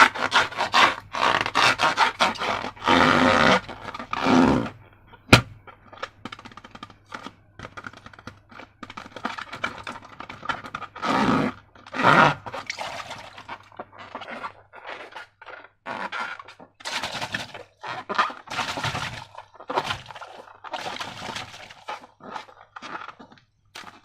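Irregular scraping and rubbing strokes from hands working slime and rubber balloons, with one sharp click about five seconds in.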